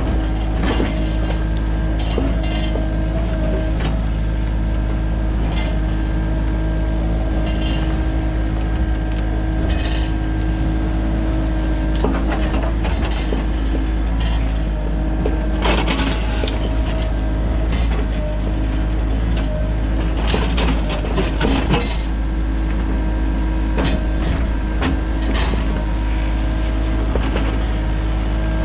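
Sany mini excavator's diesel engine running steadily under working load, with scattered knocks and cracks from about twelve seconds in, loudest around sixteen and twenty-one seconds.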